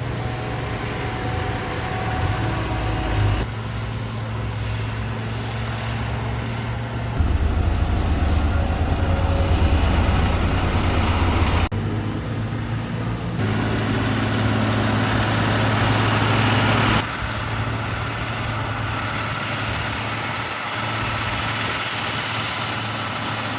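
Heavy diesel road-construction machinery, such as a motor grader, running steadily, its engine hum changing abruptly several times as separate clips are joined.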